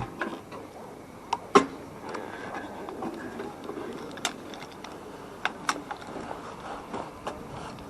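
A few short, sharp clicks and taps, scattered over a quiet background.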